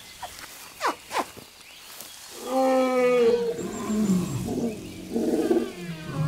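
Elephants calling: a few quick falling calls in the first second and a half, then a long, loud low call from about two and a half seconds in that sinks slowly in pitch, with more calls after it.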